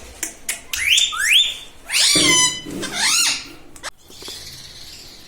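Indian ringneck parrot calling: quick rising squawks about a second in, then two louder drawn-out calls about two and three seconds in.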